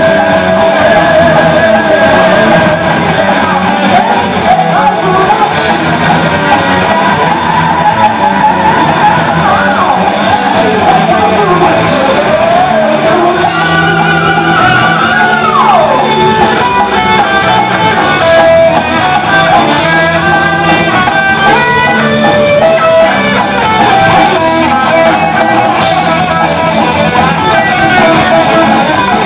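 Heavy metal band playing at full volume: distorted electric guitars, bass and drums, with a lead guitar line that slides steeply down in pitch about halfway through.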